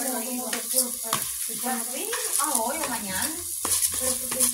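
Washed rice and chopped tomato, onion and green pepper frying in oil in a frying pan: a steady high sizzle with scattered crackles.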